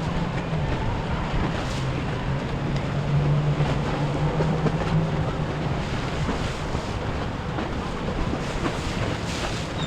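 Motorboat engine droning as a boat passes, strongest in the first half and then fading, over a steady wash of wind and water.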